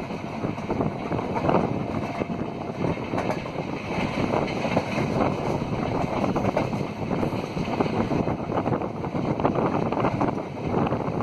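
Express train running at speed: a steady, jostling rumble and rattle of wheels on track, with wind buffeting the microphone.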